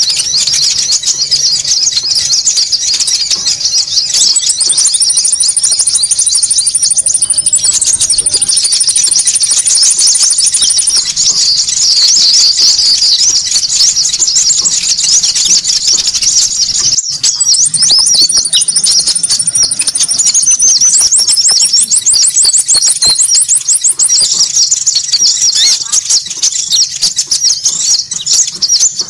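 Konin bird lure call: a dense, continuous chatter of many high, sharp chirps overlapping. A thin, steady high whistle comes and goes, and a fast even trill runs for a couple of seconds about two-thirds of the way in. This is the kind of noisy call track that bird catchers play to draw small birds in.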